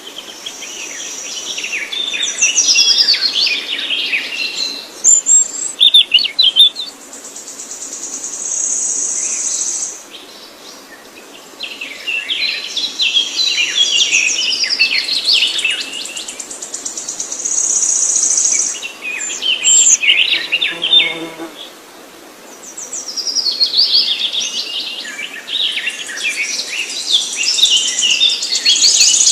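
A songbird singing, phrases of quick, tumbling notes repeated every several seconds, alternating with a steady high-pitched buzzing trill.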